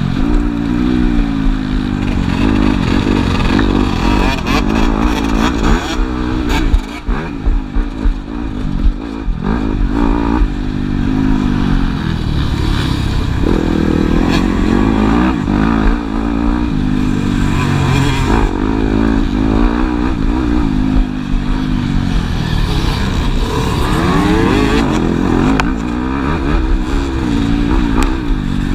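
Several motocross bikes racing, their engines revving up and down as they accelerate and shift gears around the track.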